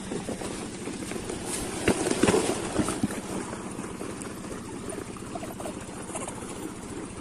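Stationary diesel pump-set engine running steadily with an even chugging beat, with a few sharp knocks about two to three seconds in.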